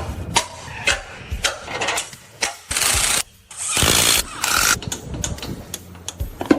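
Workshop tool noise: a run of sharp knocks and clicks, broken by two loud bursts of hissing, rushing noise near the middle.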